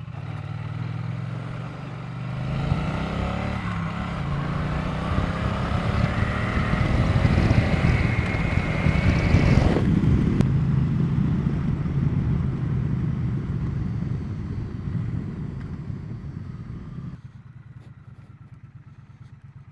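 Triumph Bonneville T100 parallel-twin engine pulling away and accelerating, its pitch rising, then backing off. The sound eases and drops away sharply near the end.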